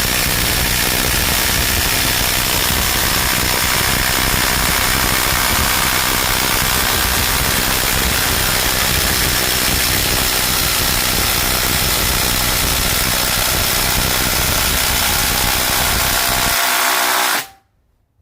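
Two Ryobi cordless impact drivers, a brushless PBLID02 and a P238, hammering together as they bore 1-inch spade bits into wood. The loud, steady impacting holds an even level, then both stop abruptly near the end.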